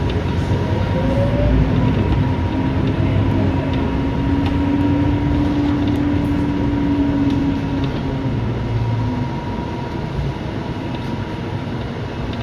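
Scania K230UB bus's diesel engine and driveline heard from inside the passenger cabin while under way: a low rumble with a steady whine that rises a little and fades away about eight seconds in.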